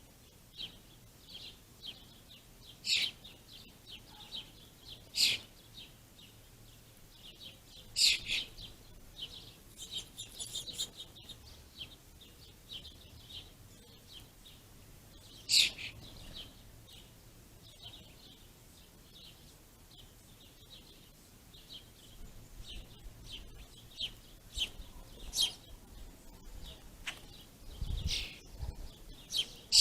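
Small songbirds chirping: a steady scatter of short, high chirps, with a handful of louder calls standing out. A brief low rumble comes near the end.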